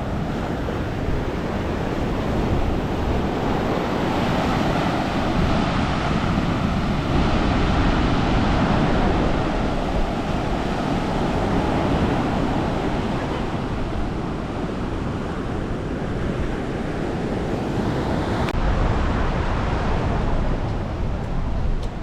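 Sea waves washing onto the beach, a continuous surf that swells and eases over several seconds, with wind rumbling on the microphone.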